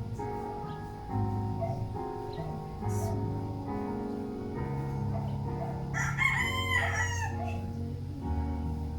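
Instrumental music with held notes plays throughout. About six seconds in, a rooster crows once, for about a second, louder than the music.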